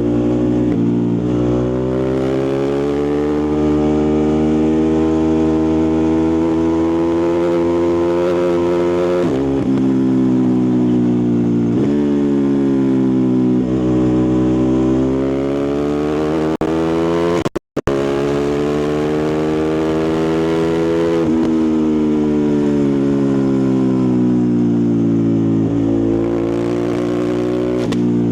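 Ducati Multistrada 1260 Pikes Peak's L-twin engine and exhaust running, its pitch rising and falling several times as the throttle is worked. The sound cuts out for a moment about two-thirds of the way through.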